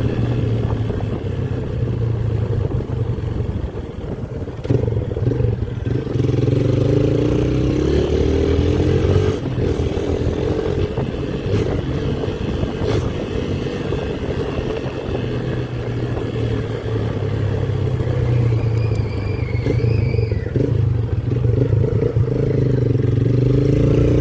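Motorcycle engine running under way. Its pitch rises and falls a few times with the throttle and gear changes.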